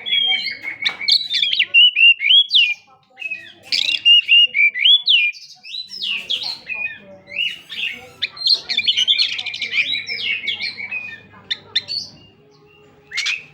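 Oriental magpie-robin singing a fast, varied song of clear whistles, slurred notes and chirps in dense phrases, with a short pause about three seconds in and another near the end.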